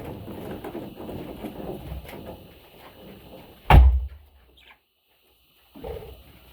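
A single sharp knock about three and a half seconds in, over low rumbling noise.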